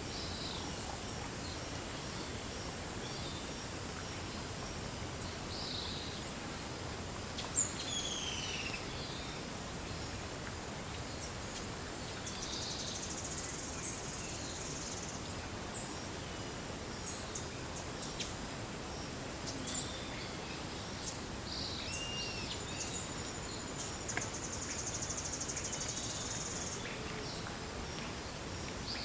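Forest ambience: scattered bird chirps and whistles, some gliding downward, over a steady background hiss. Two high buzzing trills run for a couple of seconds each, about twelve and twenty-four seconds in, and a single sharp click comes about seven and a half seconds in.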